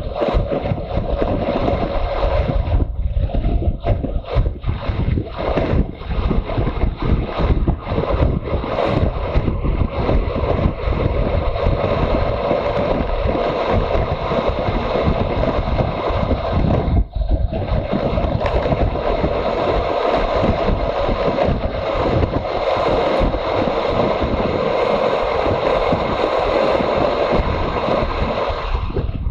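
Wind buffeting the microphone while riding a motorcycle, over the engine and road noise, with a brief lull about two-thirds of the way through.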